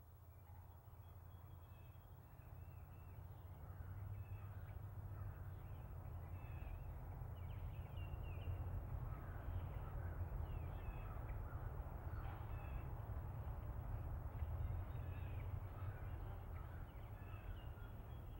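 Outdoor ambience fading in: many short bird calls over a steady low rumble.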